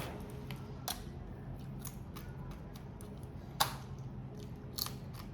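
Scattered sharp clicks and cracks of crab and prawn shells being broken and peeled by hand, the loudest about three and a half seconds in, over a low steady hum.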